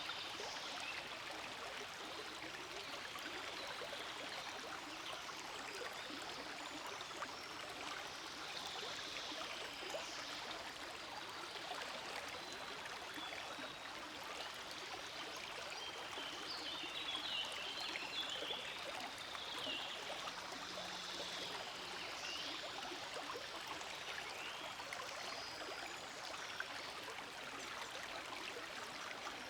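Forest stream flowing steadily, an even, continuous rush and trickle of water.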